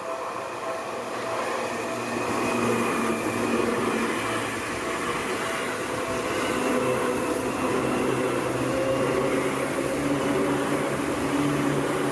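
Electric commuter train passing close by on the Seibu Ikebukuro Line. Its running noise builds over the first two seconds and then holds steady, with a motor whine that rises slightly in pitch.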